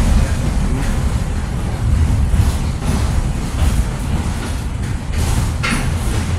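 Train running along the track, heard from inside a passenger coach: a steady low rumble of wheels on rail with scattered knocks and rattles, and one brief sharper noise near the end.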